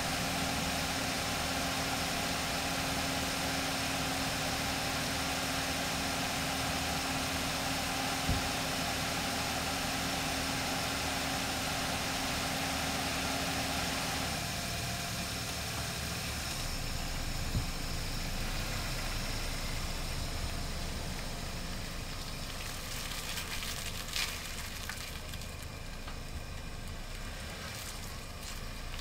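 A car engine idling steadily, a low even hum. About halfway through the sound turns slightly quieter and thinner.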